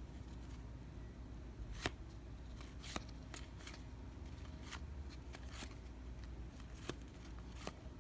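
Baseball trading cards being handled and flipped through one at a time: soft sliding with a few sharp little clicks as cards are set down, the sharpest about two seconds in.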